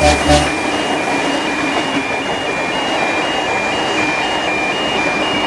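Music ends about half a second in, leaving a steady rumbling noise with an electronic warning alarm that alternates between two high tones, about two cycles a second.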